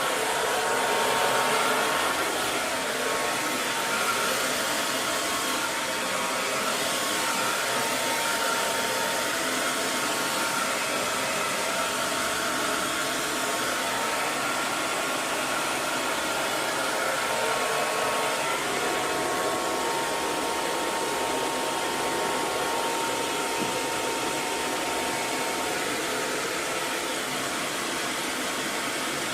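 Electric hair dryer running steadily: a continuous rush of blown air with a faint steady motor whine.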